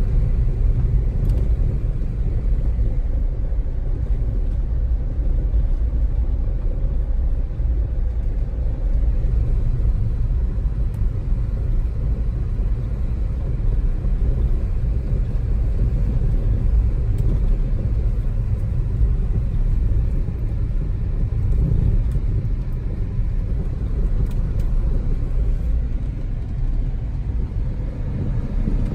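Steady low rumble of tyres and road noise on wet ice and slush, heard from inside the cabin of a 2014 Chevrolet Spark EV climbing a hill.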